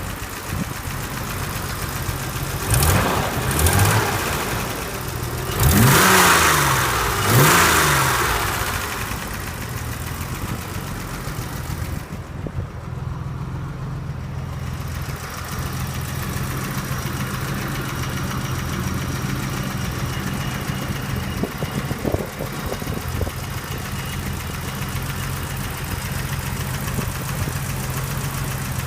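1983 BMW 635CSI's 3.4-litre straight-six engine revved in four quick blips a few seconds in, each rising and falling in pitch, then settling back to a steady idle.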